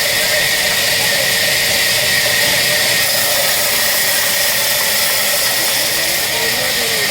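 A power tool running steadily, a constant loud whirring hiss without a break.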